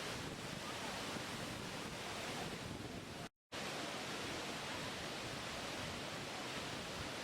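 Steady rushing water noise, like a waterfall. It cuts out completely for a split second just over three seconds in, then resumes unchanged.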